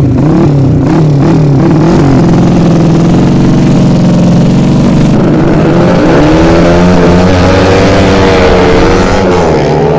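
Racing motorcycle engines revving hard and loud: quick throttle blips in the first couple of seconds, then held at high revs, with a second engine's pitch rising and falling over it from about halfway.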